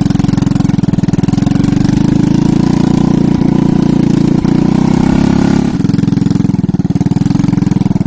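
Small engine running steadily with a fast, even pulse; its note eases down a little just before six seconds in.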